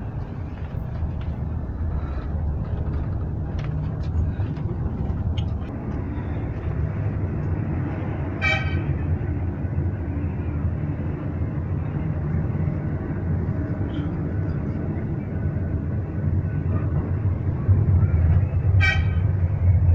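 Two short horn toots, one about eight seconds in and a second near the end, over a steady low rumble of passing traffic.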